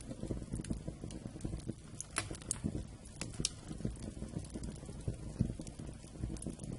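Wood fire burning: a steady low rumble of flames with sharp crackles and pops throughout, a few louder pops between about two and three and a half seconds in.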